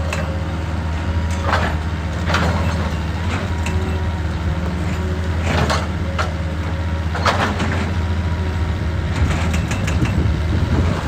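Excavator's diesel engine running steadily under load, with irregular sharp clanks and knocks, about half a dozen, from the machine working rock.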